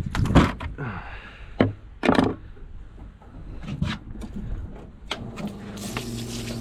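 Sharp knocks and thuds of a fish and a fillet knife being handled on a boat's fish cleaning table, several in the first four seconds. A steady motor hum starts about five seconds in.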